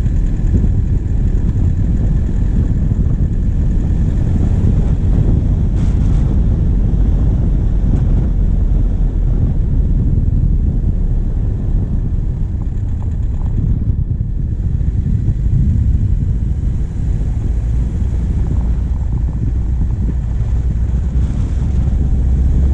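Diesel engine running steadily as the vehicle drives, picked up close from the bonnet with wind rumbling on the microphone.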